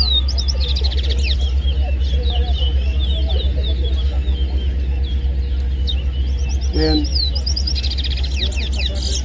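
Caged bush twa-twa finches singing: rapid runs of high, sliding chirps, one phrase after another, over a steady low hum.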